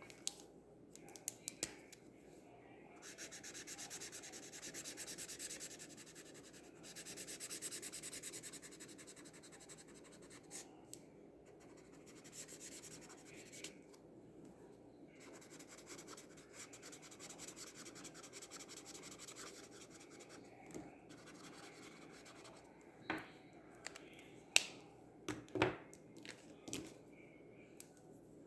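Acrylic paint marker nib scratching and rubbing across mixed media paper in quick back-and-forth colouring strokes, louder in two stretches of a few seconds each. A few sharp clicks sound near the end.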